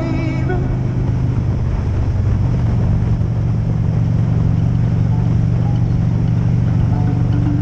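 Motorcycle engine running at a steady speed while riding, a constant low drone with road and wind noise.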